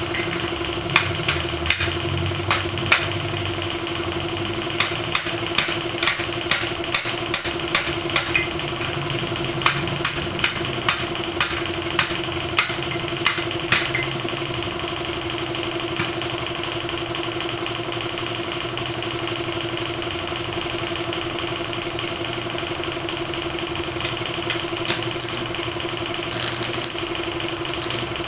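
A machine running with a steady hum, with a series of sharp, irregular clicks or taps for about the first half, then only a few.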